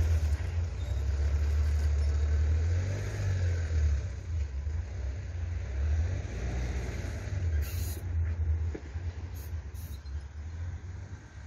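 Low rumble of a diesel-hauled Mugunghwa-ho passenger train moving away along the track, fading steadily as it recedes.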